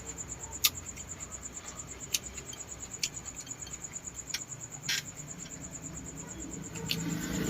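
A cricket trilling steadily at a high pitch, with about six sharp mouth clicks and smacks from eating close to the microphone.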